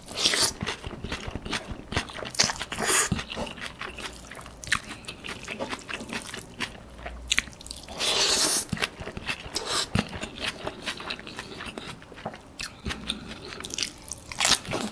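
Close-miked chewing of seafood pad thai noodles and prawns eaten by hand: wet, smacking bites with crunching. There is a louder burst of crunching about eight seconds in.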